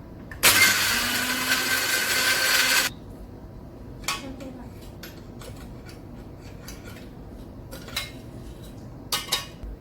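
Electric kitchen mixer grinder running for about two and a half seconds, grinding biscuits into powder; it starts and cuts off abruptly. Afterwards a few short, light knocks and clicks.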